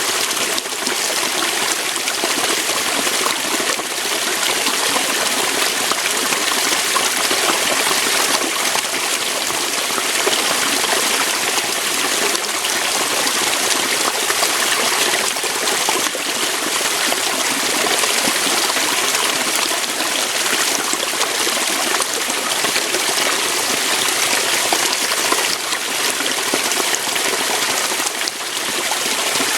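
Waterfall: water pouring and splashing steadily over rocks, a constant rushing hiss without pauses.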